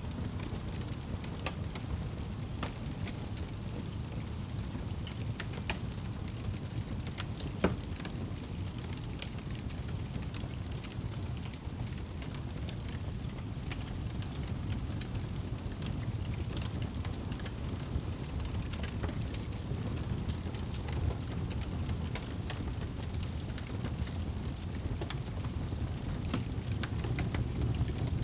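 Wood fire burning in a fireplace: a steady low rumble with scattered crackles, and one louder pop nearly eight seconds in.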